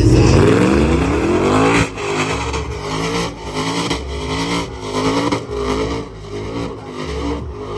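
Vehicle engine revved hard: it climbs steeply in pitch over the first two seconds, then is revved up and down in quick repeated blips, about two a second.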